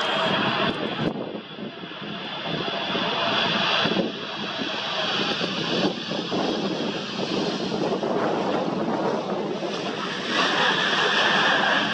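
Large jet aircraft's engines running as it passes: a steady rush of engine noise with a high whine over it. It dips briefly about a second in and grows louder again about ten seconds in.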